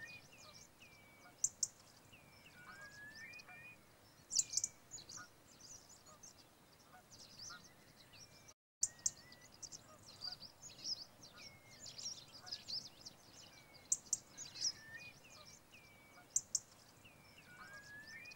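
Wild birds calling: many short high chirps and, every so often, a short slurred whistled call that rises or falls. The sound drops out for a split second about halfway through.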